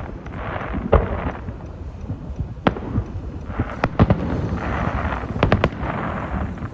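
Aerial fireworks shells bursting: a series of sharp bangs, several in quick succession a little past the middle, with patches of crackling between them.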